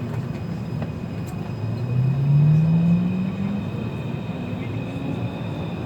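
Taipei Metro C341 train pulling away: the traction motors give a rising whine as it accelerates, loudest in the middle, then climbing again at a higher pitch near the end, over the steady rumble of the car.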